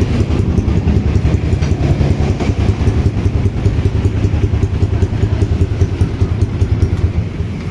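Yamaha Vixion single-cylinder four-stroke motorcycle engine idling steadily through a newly fitted stainless steel header pipe, a fast even exhaust pulse.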